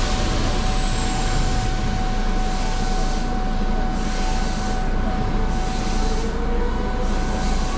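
A stationary electric train's onboard equipment running, heard from the cab. There is a steady hum with a constant tone, and from about three seconds in a hiss that swells and fades roughly every second and a half.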